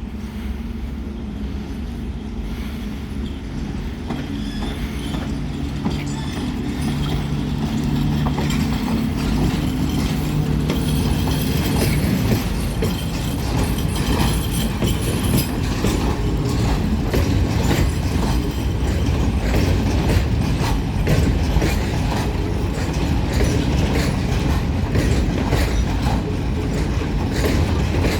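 A train approaching and passing on the track. At first there is a steady machine hum. From about twelve seconds in, the rumble of the cars and a rapid clatter of wheels over rail joints take over, growing slightly louder.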